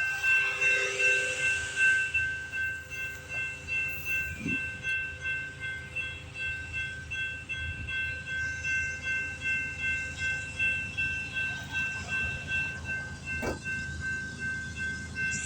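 Canadian Pacific oil train rolling past, its wheels clattering over the rail joints in a steady beat about twice a second, with a high-pitched ringing tone over the clatter.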